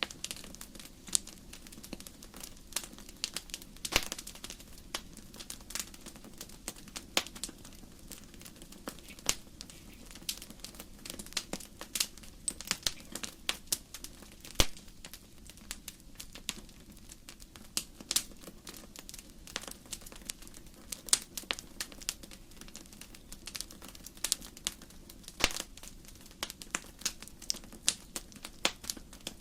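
Wood fire burning in a fireplace: burning logs crackling with irregular sharp pops, several of them louder snaps, over a low steady rumble of the flames.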